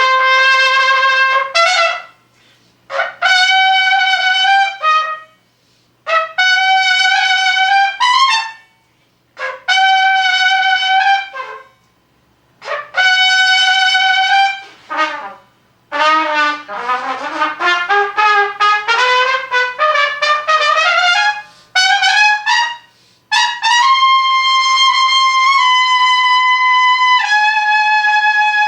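Unaccompanied solo trumpet. It plays a string of held notes in short phrases separated by brief pauses, then a quick run of notes climbing in pitch, and ends on long sustained notes.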